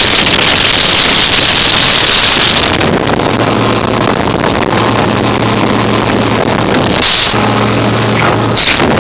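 MerCruiser 4.3-litre V6 inboard boat engine running with the boat under way, its steady low drone coming through from about three seconds in. Heavy wind rush on the microphone.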